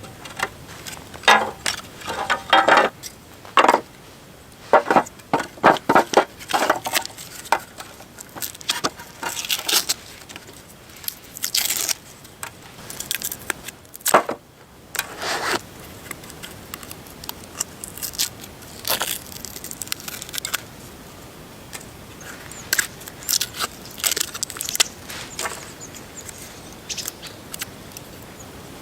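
Irregular crunching, crackling and scraping, a series of short sharp noises at uneven intervals, busiest in the first half and sparser toward the end.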